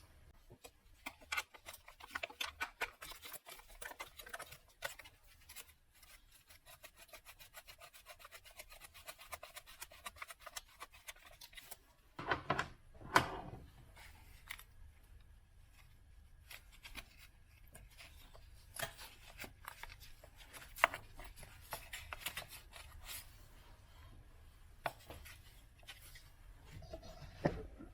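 Hand work with tools and parts on a car: runs of rapid clicking and scraping, with a handful of sharper knocks, the loudest about halfway through.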